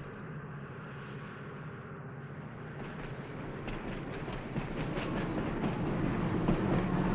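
Electric interurban train running on the rails: the rumble dies down, then builds again from about three seconds in with wheels clicking over rail joints, getting louder toward the end as a train passes.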